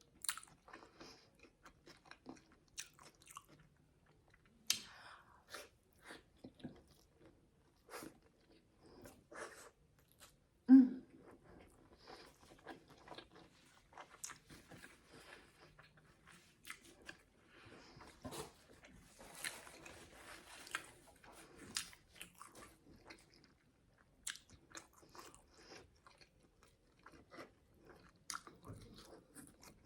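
Close-miked chewing and biting of a crispy fried chicken burger, with many small crunches and wet mouth clicks, and one loud thump about eleven seconds in.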